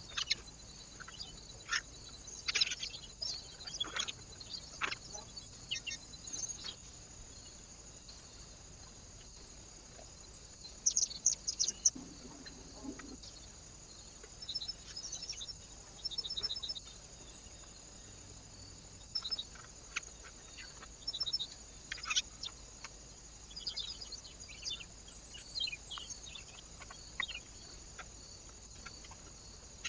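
Small birds calling with short, sharp chirps and now and then a quick run of repeated notes, in scattered bursts with quiet gaps between.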